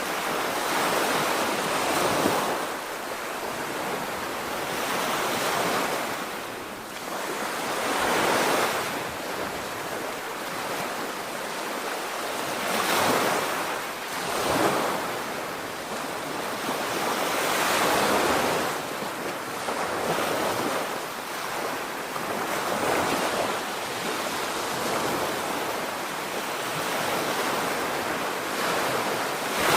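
Black Sea waves breaking and washing on the shore, swelling every few seconds, with wind buffeting the microphone.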